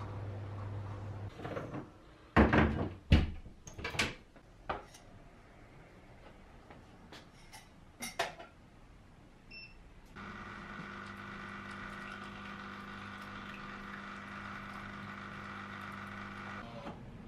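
Kitchen clatter: several loud knocks, like a cupboard or appliance door and dishes being handled, then lighter clicks and a short high beep. A microwave oven then runs with a steady hum for about six seconds and cuts off.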